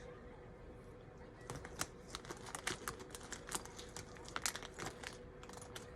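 Small plastic Lego pieces clicking and rattling in quick, irregular taps as they are sorted through by hand, over a faint steady hum.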